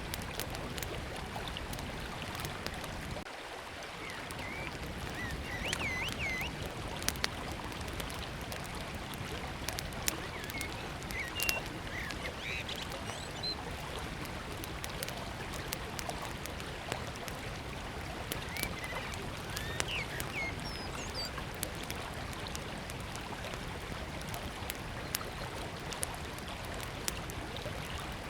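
Small wood fire crackling with scattered sharp pops over the steady rush of a river. A bird sings short chirping phrases a few times.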